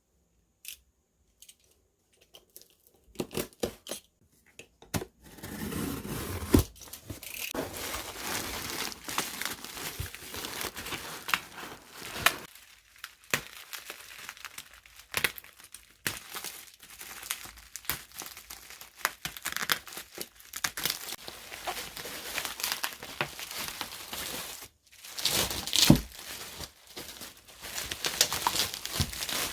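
Packaging being unwrapped by hand: a few scattered clicks and taps, then, from about five seconds in, continuous crinkling and tearing.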